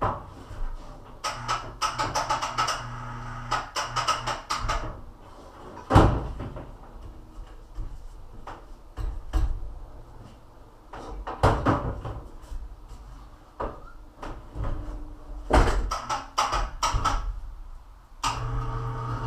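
Clattering and knocking of things being handled, in quick clusters with one loud knock about six seconds in, and short spells of a steady low hum.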